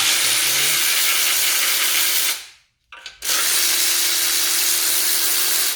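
Power tool spinning, likely undoing the exhaust manifold bolts, in two steady runs of about two and a half seconds each with a short pause between. Each run is a hissing whine with one steady tone.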